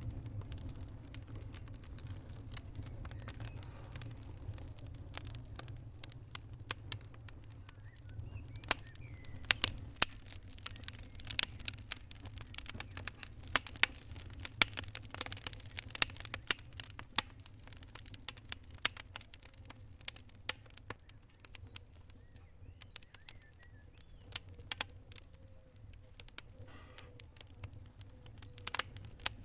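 Wood fire crackling with irregular sharp pops and snaps over a low steady rumble. The pops come thickest about a third of the way in and thin out for a while later.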